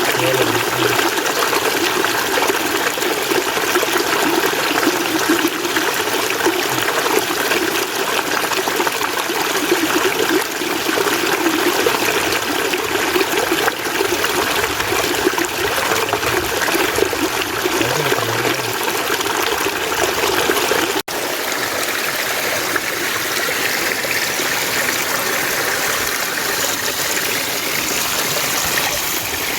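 Steady flowing water of a mountain stream. About two-thirds of the way through there is a brief dropout, and the flow then sounds brighter and hissier, like a cut to another stretch of water.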